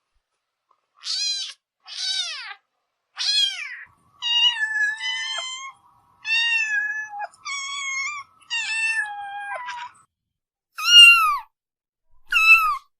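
Kitten meowing over and over, a string of about nine high-pitched meows that each fall in pitch, with the loudest near the end.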